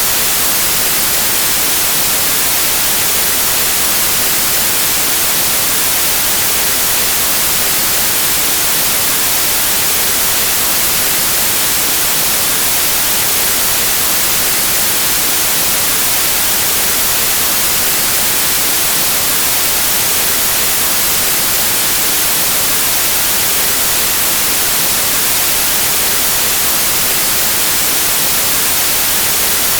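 Steady white noise: an even, unchanging hiss spread across all pitches, brightest in the highs, with no breaks or events.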